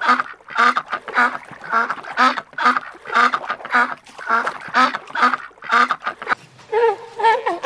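A flock of white domestic ducks quacking, a steady run of short quacks at about three a second. The quacking stops about a second before the end.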